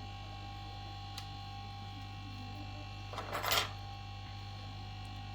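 Steady electrical mains hum with a few steady tones above it, broken by a single sharp click about a second in and a short burst of hiss about three and a half seconds in.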